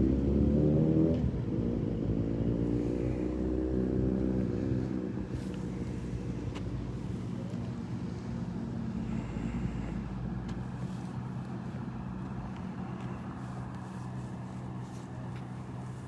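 A motor vehicle's engine speeding up in the first second, holding steady for a few seconds, then fading away as it drives off.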